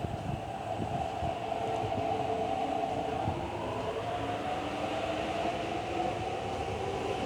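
MTR metro train running, loud, with a steady whine of its motors drifting slowly in pitch over a rumble of wheels on rails.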